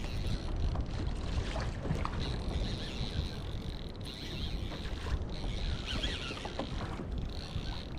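Water lapping and sloshing against a fishing kayak's hull, with a steady low rumble of wind on the microphone.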